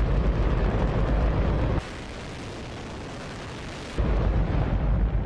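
Hydrogen-oxygen rocket engine firing on a test stand: a steady, deafening roar of noise with a heavy low rumble. About two seconds in it drops to a quieter, thinner version for about two seconds, then the full roar returns.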